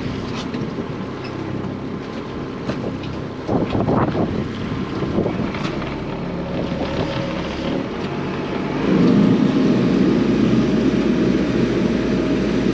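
A small boat's engine running steadily, with wind buffeting the microphone and scattered knocks and splashes. The wind and water noise grows louder about nine seconds in.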